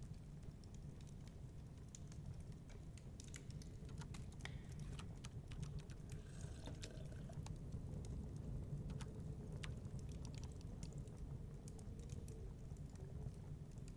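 Fireplace crackling: irregular sharp snaps and pops over a steady low rumble.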